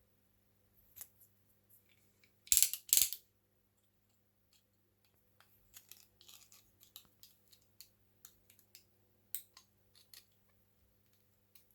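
Light hand-work noises from a small job: scattered clicks and taps, with two short, loud rasps close together about two and a half seconds in.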